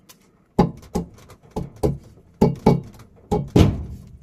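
A quick series of about nine hard knocks, each with a short low ring, as the washer's direct-drive motor rotor is knocked and pushed down onto its splined shaft to seat it.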